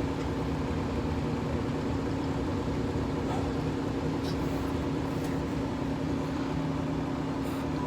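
Long freight train of hopper cars rolling past, a steady rumble of wheels on rail with a steady low hum through it.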